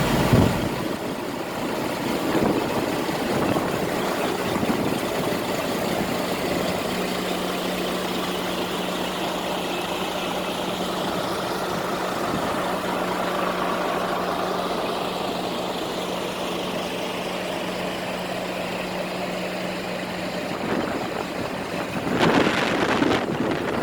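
Scania R420 truck's six-cylinder diesel engine idling steadily, with a louder surge near the end.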